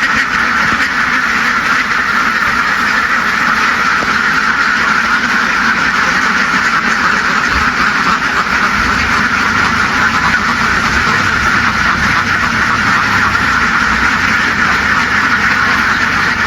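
Dense, continuous din of a large flock of ducks quacking all at once, loud and steady without a break.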